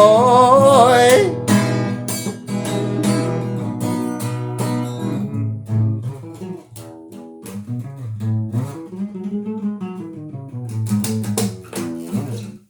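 Guitar playing the closing bars of a song, plucked and strummed chords that stop suddenly at the end. About a second in, a held sung note dies away.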